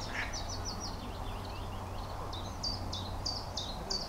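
A songbird singing two quick runs of short, high repeated notes, the first just after the start and a longer one later, over steady outdoor background noise with a low hum.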